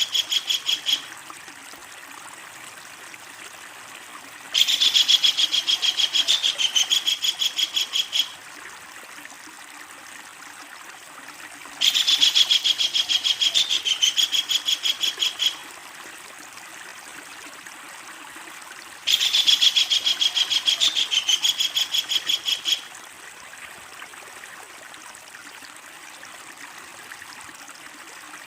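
Kingfisher giving long, loud cackling calls: a call ending about a second in, then three long series of rapid repeated notes, each lasting about three and a half seconds, roughly seven seconds apart. A steady rush like running water sounds underneath.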